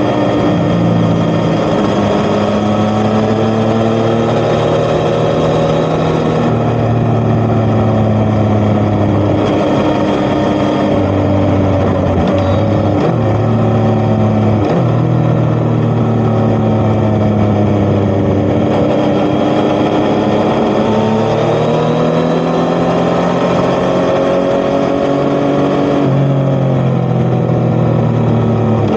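Yamaha XSR900's three-cylinder engine through an Akrapovic titanium exhaust, under way. Its note rises and falls repeatedly as the throttle is opened and eased off, with a few short dips in the middle.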